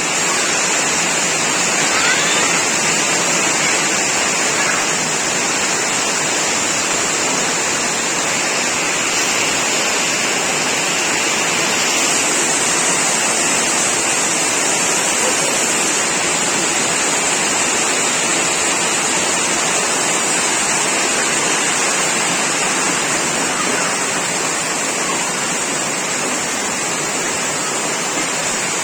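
Heavy rain pouring steadily: a loud, even hiss of water with no break.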